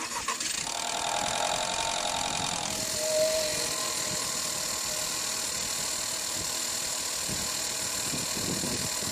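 Volkswagen 1.4 TSI petrol engine running steadily at idle. This is presented as the noise such an engine makes on a cold start, the warning sign of a stretched timing chain and a weakened chain tensioner.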